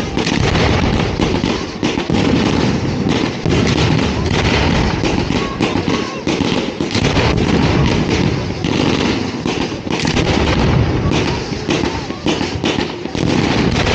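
Fireworks fired from the ground in quick succession: a dense, unbroken string of launches and bursts at close range.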